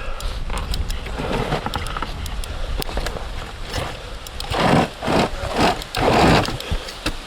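Surron Ultra Bee electric dirt bike riding over wet forest roots: rattles and sharp knocks from the chassis and tyres over a low rumble, with several loud rushes of noise in the second half.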